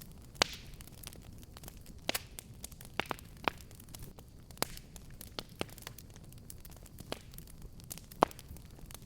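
Fireplace fire crackling: irregular sharp pops and snaps over a low steady rumble. The loudest pops come just after the start and near the end.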